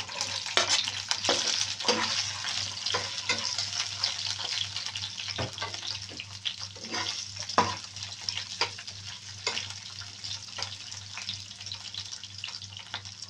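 Green bell pepper strips frying in hot oil in a nonstick pan: a steady sizzle, loudest just as they go in and easing a little, with frequent sharp pops of spattering oil. A faint low hum runs underneath.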